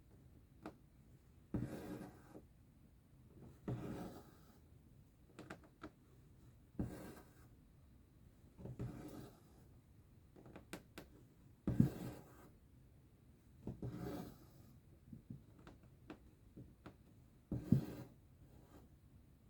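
Cross-stitch thread being pulled through fabric: a soft rasping swish about every two seconds, with faint ticks between the pulls.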